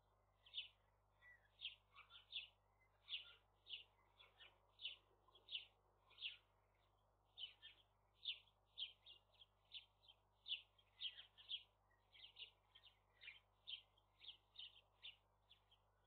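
A bird's short high calls, about two a second, in a long irregular run.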